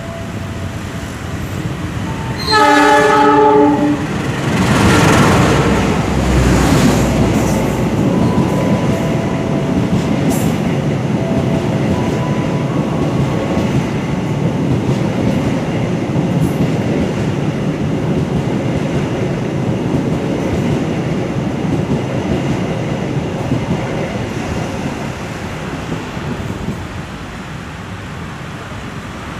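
An electric commuter train sounds one horn blast of about a second, a few seconds in. It then runs past along the platform, the sound of its wheels on the track slowly dying away.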